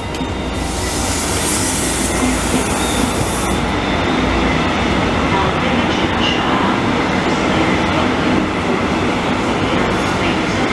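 Israel Railways double-deck passenger coaches rolling past close by: a steady, loud rumble of wheels on rails. A high hiss over it cuts off suddenly about three and a half seconds in.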